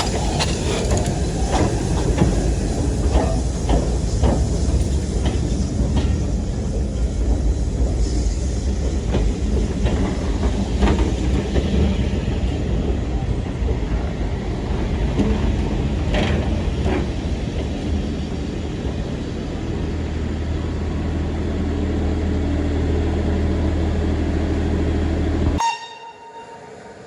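Train running on the line: a heavy low rumble with wheels clicking over rail joints. Near the end it cuts off suddenly, leaving a quieter steady tone.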